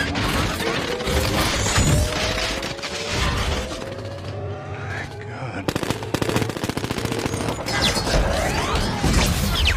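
Film battle soundtrack: mechanical whining that glides upward in pitch, then from about six seconds in, rapid bursts of machine-gun fire.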